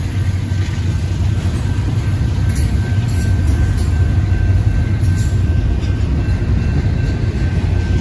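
Double-stack intermodal container cars of a Union Pacific freight train rolling past: a steady low rumble of steel wheels on rail, with a faint steady high whine over it.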